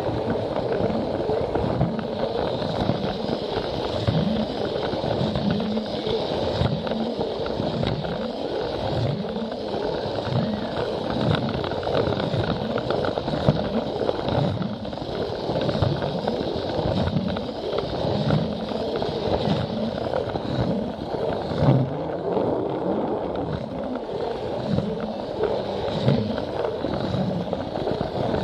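Battery-powered Plarail toy train running steadily, its small motor whirring with a regular knock, about one or two a second, as the wheels cross the joints of the plastic track, heard from a camera riding on the train.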